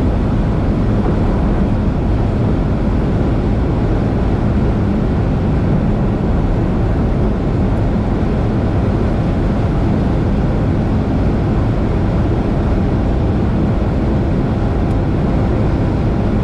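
2021 Honda Civic Type R running at a steady high speed: a steady engine note under heavy wind and road noise, with no gear changes or rise in revs.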